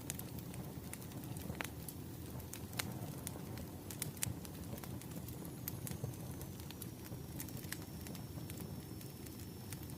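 Wood fire crackling: a steady low rumble of burning logs with irregular sharp pops and snaps.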